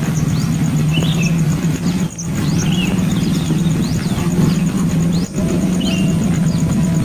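A steady low hum with short bird chirps repeating about every one and a half seconds over it.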